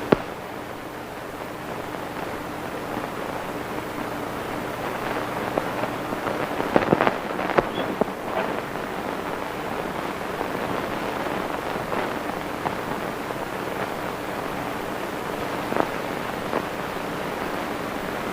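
Steady hiss and low hum of an old optical film soundtrack, with a cluster of crackles and knocks about seven seconds in and two more pops near the end.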